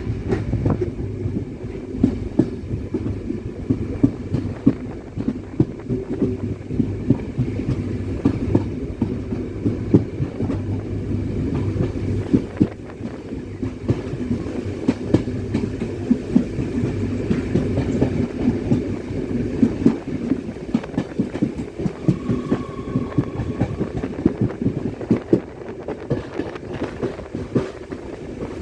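Train running along the track: a steady low rumble with a continuous irregular clatter of wheels over rail joints.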